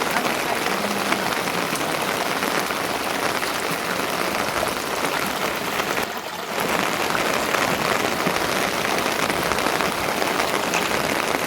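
Steady rain falling, a dense patter of drops, briefly quieter for a moment about six seconds in.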